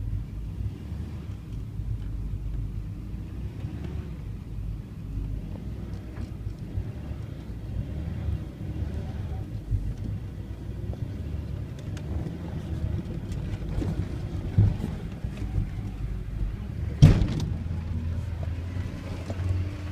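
Dump truck engine running steadily while the hydraulic hoist raises the box to dump its load. A single loud bang comes near the end.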